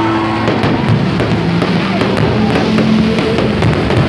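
Loud music with a drum beat, mixed with dense crackling and sharp bangs from a fireworks display.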